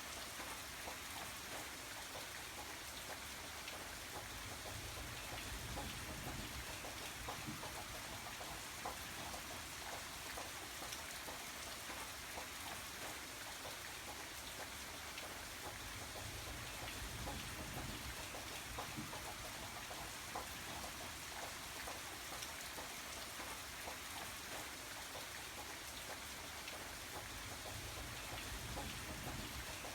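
Steady rain falling, with the patter of many individual drops hitting a surface.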